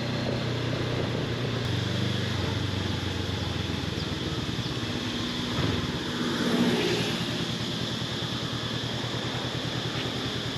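Honda CB500X parallel-twin motorcycle engine running steadily at low speed, with an even engine pulse. It swells briefly about six seconds in.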